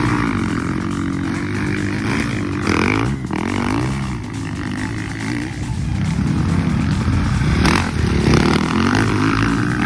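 Motocross bike engines revving up and down over and over as riders go around the track, with several bikes overlapping at times.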